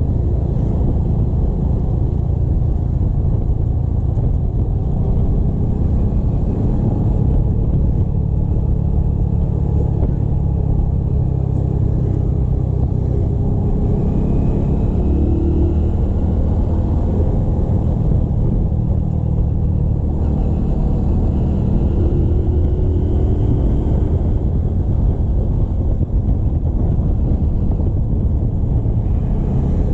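Motorcycle engine running while riding, a steady low noise that holds through, with faint pitch changes from the engine now and then.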